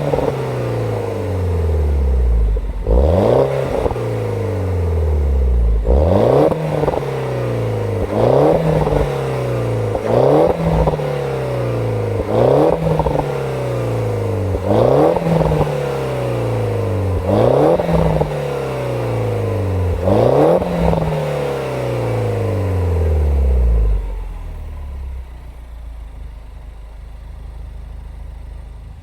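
Exhaust of a 2007 MINI Cooper S R56's 1.6-litre turbocharged four-cylinder being revved with the car standing: about eight quick throttle blips, each a sharp rise in pitch that sinks slowly back. It then settles to a steady idle about four-fifths of the way in.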